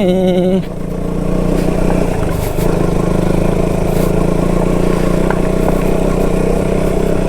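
Motorcycle engine running steadily at low speed while riding over a broken, stony road, with a few light clatters from the rough surface.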